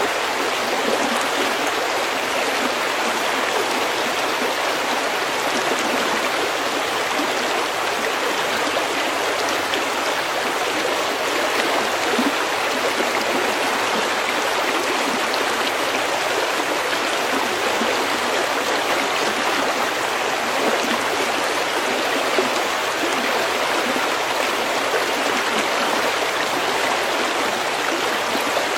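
A stream of water flowing steadily over pebbles, a constant rushing and babbling.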